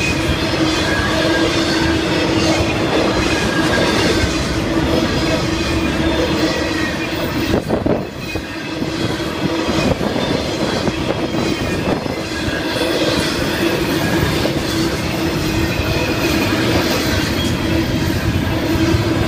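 Intermodal freight cars (trailers on flatcars, containers and double-stack well cars) rolling steadily past, a continuous rumble and clatter of wheels on rail with a steady tone running through it. The sound is briefly quieter about eight seconds in.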